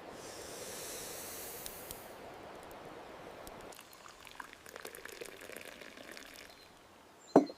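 A pot of water boiling: a hiss for the first couple of seconds, then quieter bubbling with irregular small pops. A short, loud thud comes near the end.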